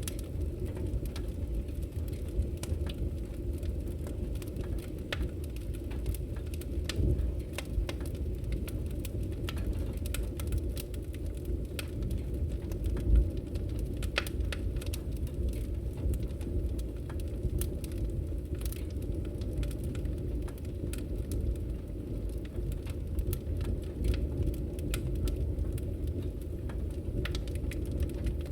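Wood fire burning: a steady low rumble of flames with frequent irregular crackles and pops, one sharper pop about thirteen seconds in.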